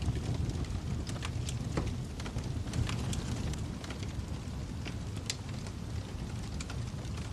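Wood fire crackling: irregular sharp pops and snaps over a steady low rumble, with one sharper pop about five seconds in.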